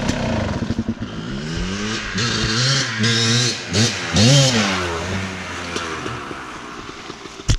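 Dirt bike engine revving, its pitch rising and falling several times in quick succession about halfway through, then settling and fading away.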